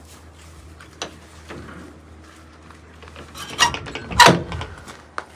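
A few knocks and scrapes: a sharp click about a second in, then two louder thuds a little after three and four seconds in, over a low steady hum.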